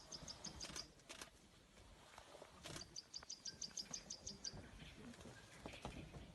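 Faint outdoor ambience with two runs of rapid, high-pitched chirps, about eight a second, each lasting about a second and a half, and a few faint clicks.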